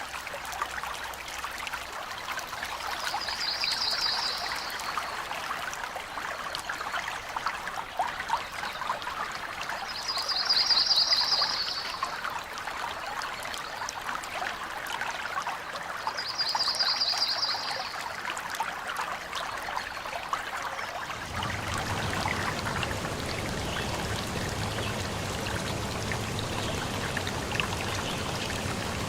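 Small stream trickling and splashing steadily, while a bird gives a short high trill three times, several seconds apart. About two-thirds of the way in the sound shifts, with a low steady hum joining the water.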